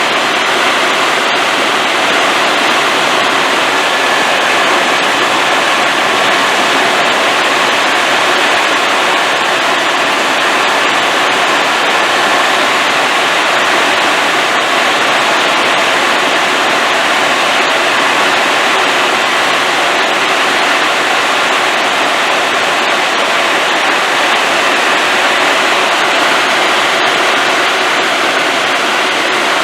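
Helicopter in flight heard from inside the cabin: a loud, steady rush of engine and airflow noise with a faint high whine.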